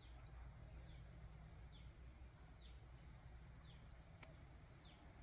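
A bird calling over and over in short, falling chirps, about two a second, over a faint steady low rumble.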